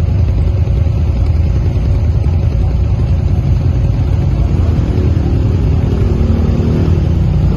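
Quad bike (ATV) engine running under way, a loud steady low rumble; the engine note shifts in pitch over the last few seconds.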